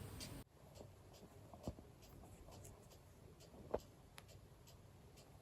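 Near silence: faint, even ticking about twice a second, with two light clicks, one about a second and a half in and a louder one nearly four seconds in.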